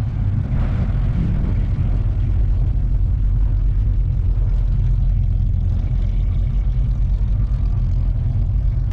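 A car engine running with a steady, low exhaust rumble.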